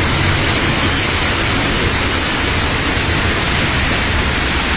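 Loud, steady rushing noise of storm floodwater.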